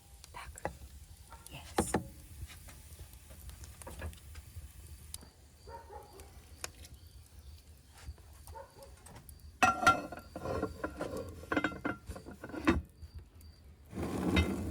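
Food-preparation handling sounds: scattered short knocks and clinks of kitchenware, busiest in the second half, with a short burst near the end.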